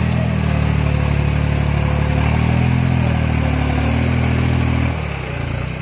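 New Holland tractor's diesel engine running hard while pulling a heavy load, with a steady pulsing beat and small rises in pitch. About five seconds in, the pitch drops and it eases off and gets quieter.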